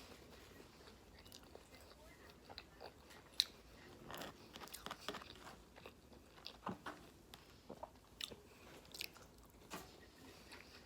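A person chewing and biting food close to the microphone: quiet, irregular mouth clicks, with one sharper click about three and a half seconds in.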